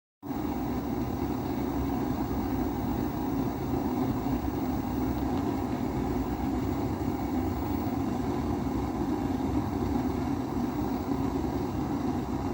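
Kerosene pressure stove (primus-type burner) burning with a constant low rushing roar, starting after a short dropout at the very beginning.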